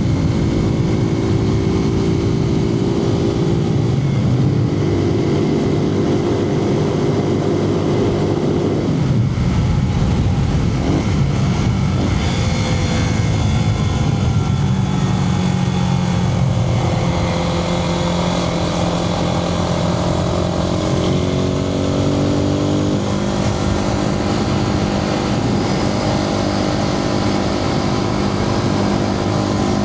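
Suzuki TU250X's single-cylinder engine running under way, heard from a microphone inside the rider's helmet over wind and road noise. The engine note steps and glides in pitch several times, around 4, 9 and 17 seconds in and again near the end.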